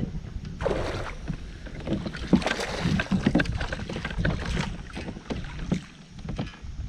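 Wind rumbling on the microphone out on a kayak, with irregular short splashes and knocks of water and gear against the hull.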